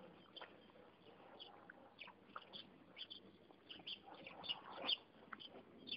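Faint, scattered high chirps of small birds, with a soft rustle about four to five seconds in.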